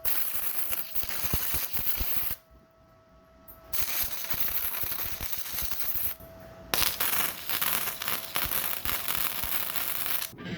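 Loud, dense crackling in three long bursts separated by short pauses, with a faint steady hum audible in the pauses.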